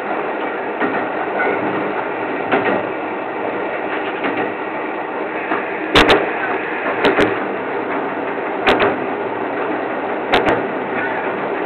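Train running along the track, heard from inside the front of the car: a steady rumble with a few sharp clicks from the wheels, a second or two apart in the second half.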